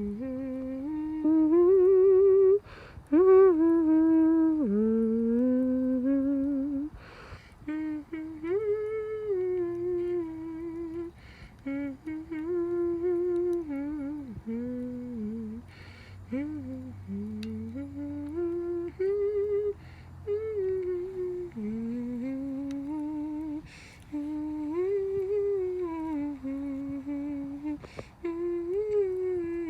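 A person humming a slow, wavering melody in phrases of a few seconds, with short pauses between them.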